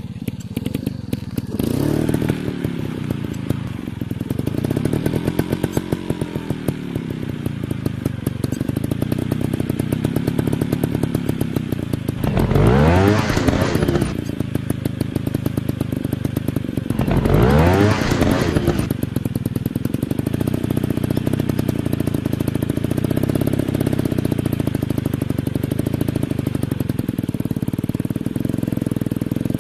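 Dirt bike engines running, their pitch swelling and easing as the bikes ride, with two hard revs about halfway through.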